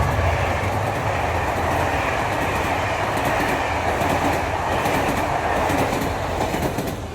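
Train cars rolling past, a steady rumble with wheels clicking over rail joints, fading away near the end.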